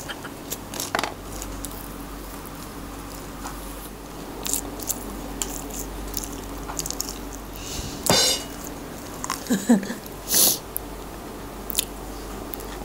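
A person chewing a mouthful of food close to the microphone, with small wet mouth clicks and a few louder short mouth and breath sounds in the second half.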